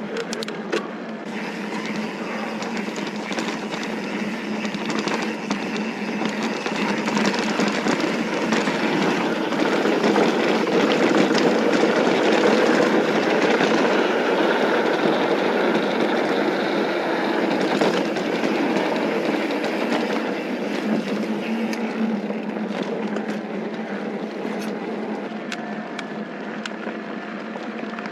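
Mountain bike rolling fast downhill over loose dirt: a steady rush of tyre and wind noise with scattered rattles and clicks from the bike. It swells toward the middle and eases off near the end.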